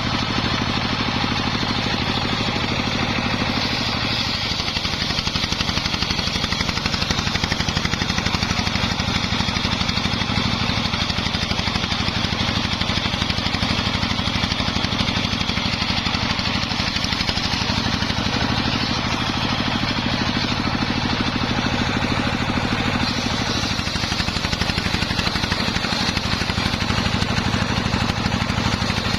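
Homemade engine-driven circular sawmill running steadily with a fast regular chugging while sawing waru wood into battens.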